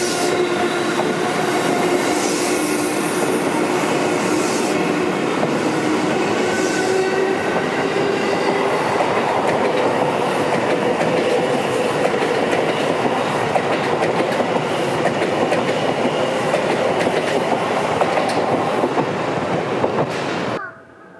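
Seibu Railway electric trains running past on the track: a steady rush of wheels on rail with a whine of several steady tones over it, which cuts off suddenly near the end.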